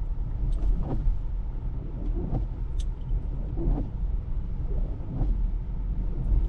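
Low, steady road and tyre rumble heard inside an electric Tesla's cabin while driving on snowy roads, with a few faint scattered knocks.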